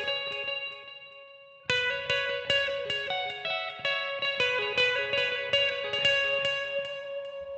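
Electric guitar with effects picking a quick repeating pattern of single notes; about a second in one note is left to ring and fade, then the picking resumes.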